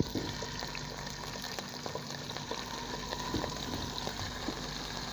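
Washed chicken pieces sizzling and bubbling in hot oil in a cooking pot, a steady crackling fry with a sharp knock at the very start.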